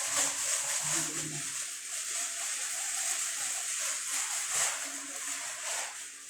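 Running water splashing steadily, as a dirty vacuum cleaner part is washed under it.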